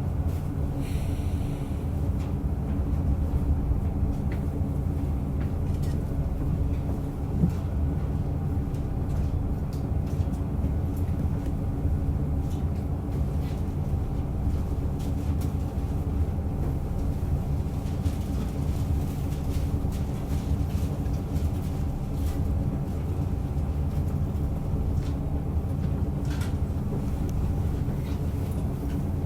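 Diesel railcar running along the track: a steady engine drone with the rumble of wheels on rail, and a few faint clicks.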